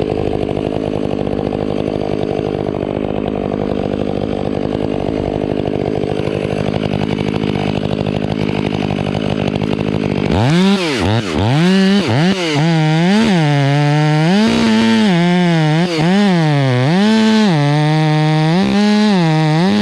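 Two-stroke chainsaw cutting through a pine trunk. The engine holds a steady speed at first; about ten seconds in it is much closer and louder, its pitch dropping and rising again and again as the chain loads up in the cut and frees.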